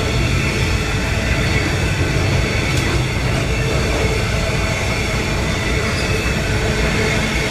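Freight train running past, a steady rumble of rolling wagons with faint steady tones high above it.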